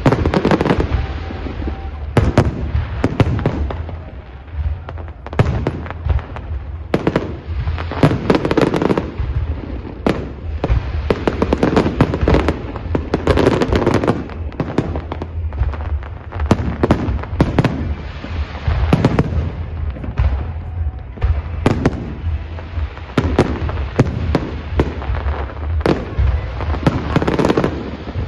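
Professional fireworks display: aerial shells bursting in rapid, overlapping volleys of sharp cracks and bangs over a continuous low rumble.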